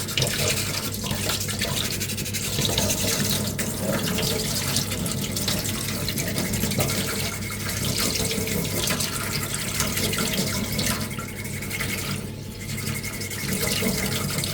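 Hand sanding with 240-grit sandpaper: continuous scratchy back-and-forth scrubbing of the paper over a small putty-coated 3D-printed armour ring, to smooth away print layer lines. A steady low hum sits underneath.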